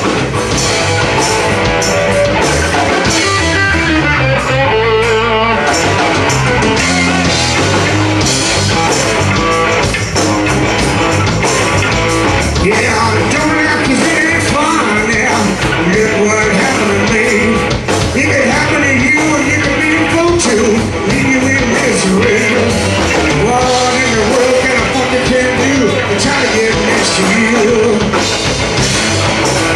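Live rock band playing loud, with singing, electric guitar and a steady drum beat.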